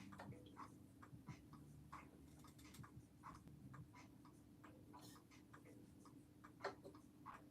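Mechanical clock ticking faintly in a quick, even rhythm, over a low steady room hum.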